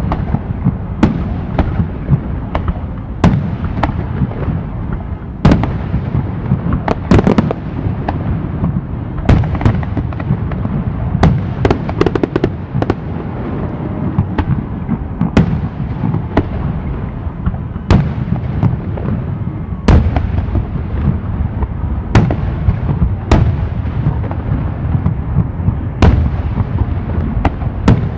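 Fireworks display: aerial shells bursting with sharp booms every second or two over a continuous low rumble of overlapping explosions, with a quicker cluster of bursts about halfway through.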